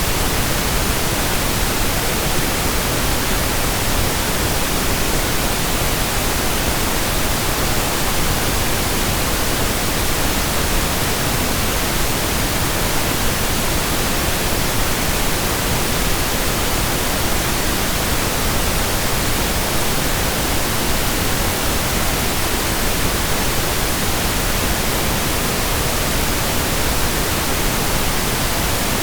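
Steady pink noise: an even, unbroken hiss spread across all pitches, with no changes or events.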